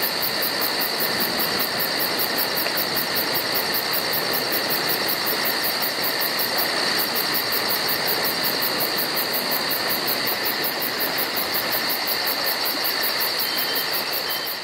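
Steady, even hiss-like ambience with a fine high pulsing about four times a second, beginning to fade at the very end.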